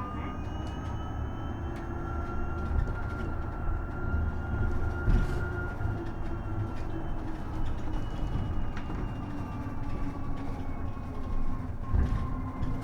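Isuzu Erga EV electric bus driving, heard from inside the cabin. The electric drive motor's high whine rises gently, then slowly falls as the bus eases off. Low road rumble runs under it, with a couple of knocks: one about five seconds in and one near the end.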